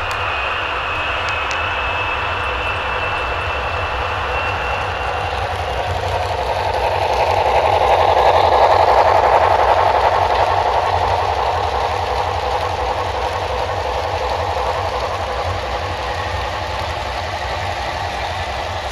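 HO scale model train running on the layout, a steady mechanical hum with a low rumble, swelling louder about 7 to 10 seconds in as the train passes close, then settling back.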